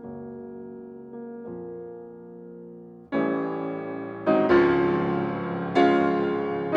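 Piano music: soft held chords, then louder chords struck from about three seconds in, each ringing on and fading.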